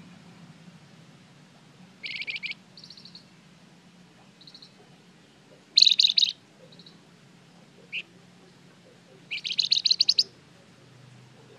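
Flamboyan songbird singing in short bursts of rapid chattering notes. The loudest bursts come about six seconds in and near the end, with softer short notes and a single chip in between.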